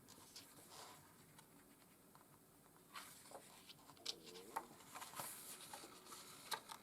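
Faint rustling and soft clicks of paper as the pages of a paperback art book are turned by hand, the glossy pages sticking together. The handling gets a little busier about halfway through.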